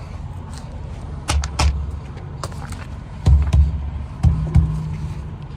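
Tractor-trailer tires being struck to check their pressure: three pairs of dull thuds, over the steady low hum of the idling truck.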